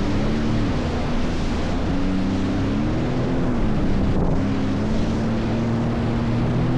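Jet ski engine running under way, its pitch dipping and rising with the throttle, over the rush of wind and water spray.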